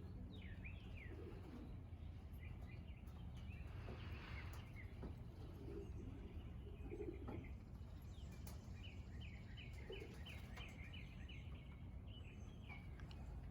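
Faint outdoor birdsong. Small birds give short chirps throughout, with a quick run of them partway through, and pigeons coo softly now and then. A low steady rumble of background noise runs underneath.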